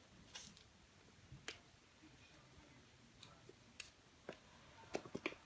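Quiet room with scattered faint clicks and taps from kittens playing, their paws and claws knocking on things, and a quick run of several taps near the end.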